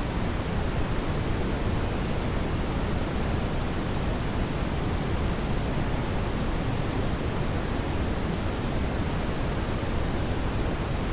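Steady brown noise: an even, deep rushing hiss, strongest in the low end, with no changes.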